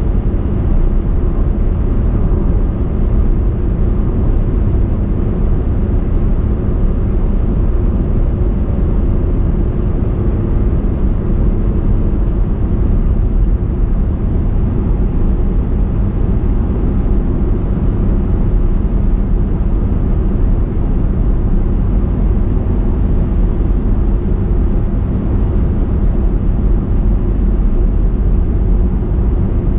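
A car driving at a steady pace: continuous low rumble of tyres on the road and engine, unchanging throughout.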